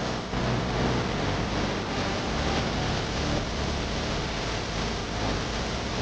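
Steady, loud, noisy roar of race-circuit ambience with a low engine-like hum underneath; no single motorcycle is heard passing.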